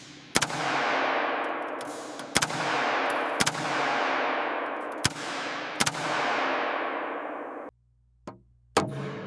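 A series of sharp knocks, each followed by a long rushing hiss that swells and fades. Near the end the sound drops out briefly, then quick, evenly spaced tapping like hammering begins.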